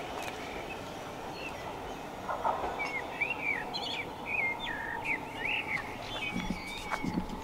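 A songbird singing a run of short chirping, warbling notes that starts about three seconds in, over steady background noise.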